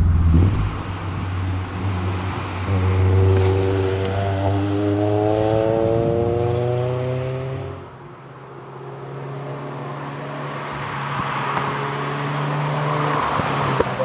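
Subaru BRZ's flat-four engine accelerating, its note rising steadily for several seconds. About eight seconds in the throttle lifts and it falls to a low, steady drone under tyre and wind noise, then slowly builds again.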